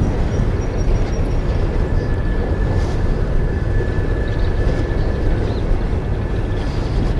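Coal hopper cars of a long freight train rolling past close by: a steady rumble of wheels on rail, with a faint thin high tone held through the middle.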